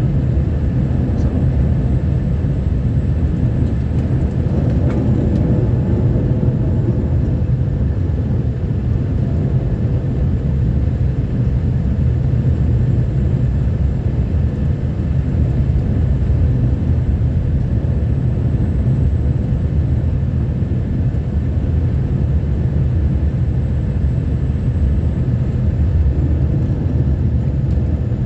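Snowplow truck driving along a snowy road: a steady, low engine and road rumble that holds even, with no change in pace.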